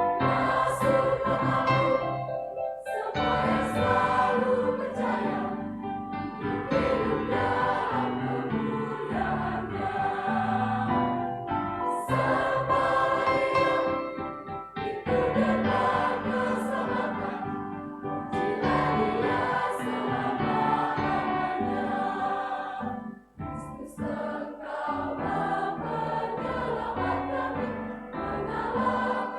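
Church choir singing a hymn in parts, in long sustained phrases with short breath breaks between them; the deepest break comes a little past two-thirds through.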